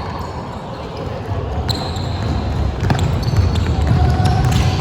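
Basketball bouncing during a game, against the steady low noise of play on court.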